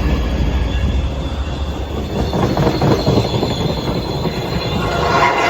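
Passenger train running through the station: a loud steady rumble of the cars on the rails, a high wheel squeal, and a run of clacks over rail joints in the middle.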